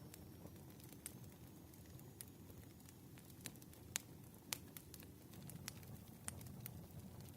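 Wood fire crackling: scattered sharp pops and snaps over a low steady rumble, the loudest two about four and four and a half seconds in.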